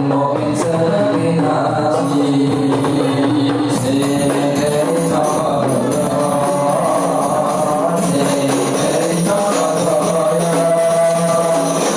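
Rebana frame drums played steadily under a group of voices singing a chant-like melody.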